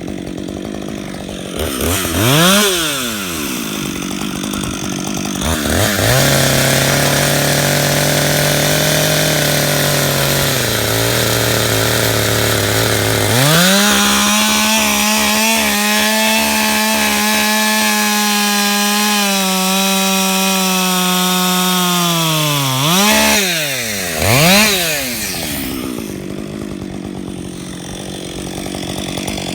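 Two-stroke chainsaw cutting into a California black walnut stump. The engine blips, runs steady under load with its pitch sagging lower for a few seconds, then screams at a much higher steady pitch for about ten seconds. It gives two quick throttle blips and drops back to a lower, quieter run near the end.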